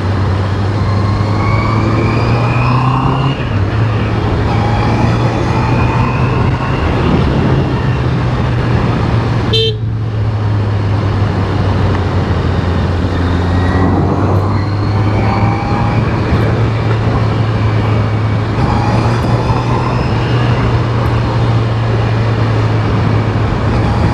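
Honda CBR650R's inline-four engine running under way, its note climbing several times as the bike pulls and then dropping back, with a brief break about ten seconds in.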